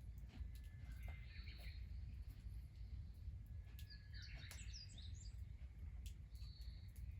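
Small birds calling: a few short chirps, then a quick flurry of twittering calls about four seconds in and one more short call near the end. Underneath are a steady low rumble and a few faint clicks.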